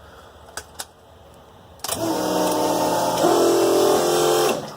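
Two light clicks, then an electric pre-oiling pump switches on with the ignition: a loud motor whine over a hiss that shifts pitch partway and cuts off after a little under three seconds. It is building about 20 psi of oil pressure in the LS1 V8 before the engine is started.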